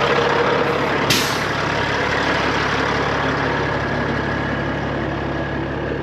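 Straight-piped Peterbilt 389 semi truck idling steadily, with a short sharp burst of air hiss about a second in.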